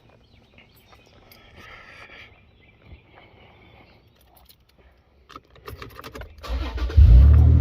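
Faint clicks and light rattles, then about seven seconds in a car engine starts and settles into a steady idle.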